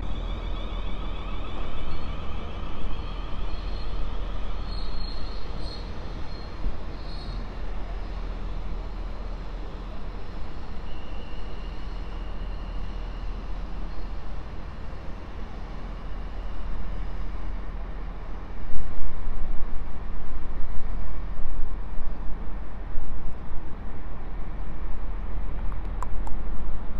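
Train noise on a railway platform: a steady low rumble, getting louder about two-thirds of the way through.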